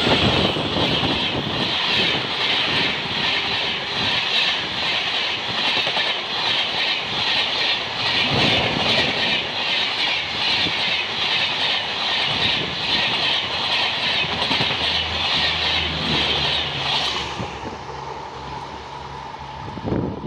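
Express train of passenger coaches passing at speed right beside the platform: a loud rush of wheels on rails with a fast, even beat. About 17 seconds in, the rush cuts off as the last coach clears, leaving a fading rumble.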